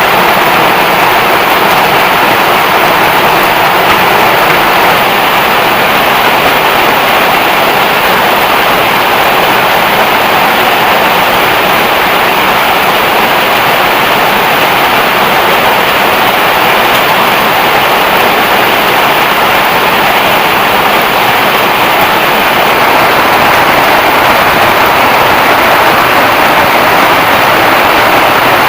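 Heavy rain falling steadily, a loud, even hiss of downpour.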